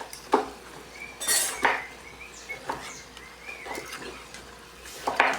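Utensil knocking and scraping in a cooking pan where potatoes are frying, about six separate clinks a second or so apart with one longer scrape about a second and a half in.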